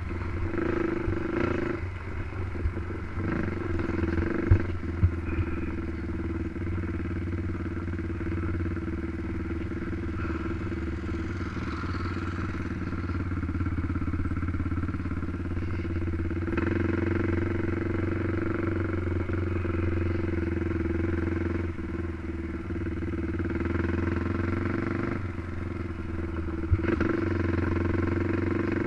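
Racing quad (ATV) engine running hard under way, its note stepping up and down a few times as the rider works the throttle and gears. A few sharp knocks about four to five seconds in.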